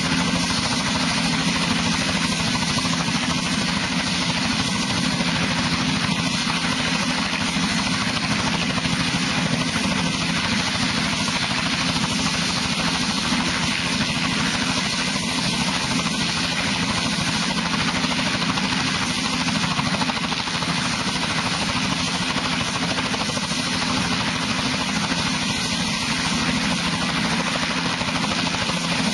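Helicopter running steadily, its engine and rotor making a continuous, unchanging sound.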